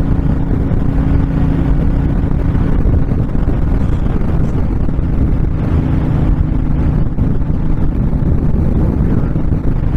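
Honda VTX1300 V-twin motorcycle engine running steadily at cruising speed, with heavy wind rushing over the microphone.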